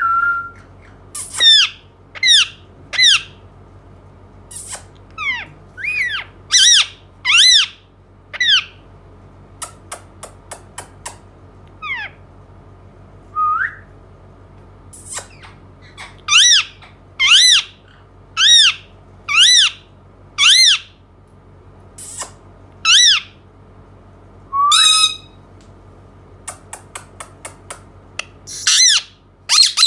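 Indian ringneck parakeet calling: runs of loud, sharp, arching squawks about a second apart, with a few short whistled notes between them. There are rapid trains of clicks about ten seconds in and again near the end.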